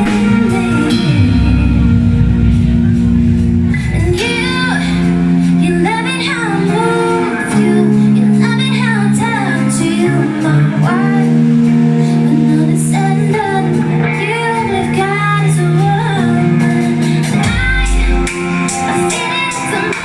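Live amplified band playing a song: a singer over sustained guitar and bass notes, with drums and cymbals keeping time.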